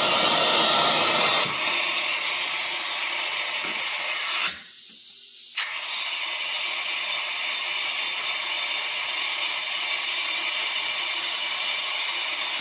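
Central vacuum pulling air hard through a working water lift gauge at a wall outlet: a loud, steady rush of air. About four and a half seconds in, the lower part of the sound drops away for about a second, then returns. The gauge reads about 75 inches of working water lift at one of the outlets furthest from the unit.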